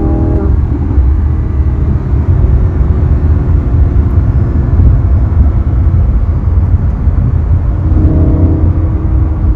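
Sports car engine under way, with strong low rumble. The revs drop at a gear change about half a second in, the engine then holds a steady drone, and it starts climbing again in the last second or two.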